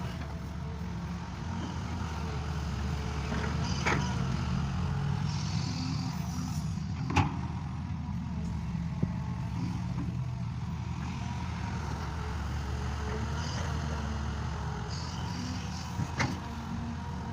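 A farm tractor's engine running steadily, with a few sharp clanks along the way.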